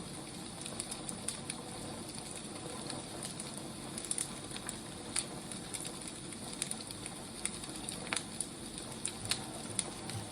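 Wood fire crackling: a steady soft hiss with scattered, irregular pops and snaps.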